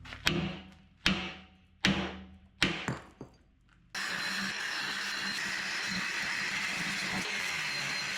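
Four sharp metal strikes, about one every 0.8 seconds, each ringing briefly: a hammer hitting steel on a loader bucket. About four seconds in, a steady hissing noise takes over.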